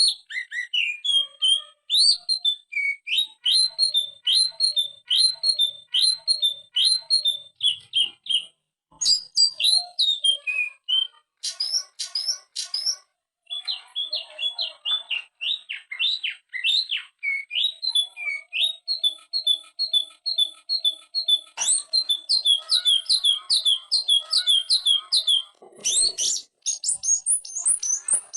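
Green leafbird (cucak ijo) singing a fast, varied song of rapidly repeated downslurred whistles mixed with high chirps, in the lively rapid-fire 'ngetrok' style. The song breaks off briefly twice.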